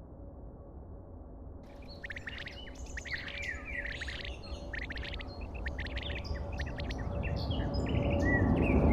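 Birds chirping and calling in quick, varied notes, starting about two seconds in, over a low rumble that grows steadily louder.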